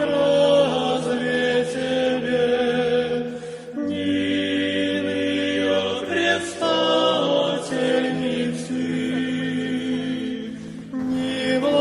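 Choir singing slow Orthodox church chant in long held notes, with brief breaks between phrases about four seconds in and near the end.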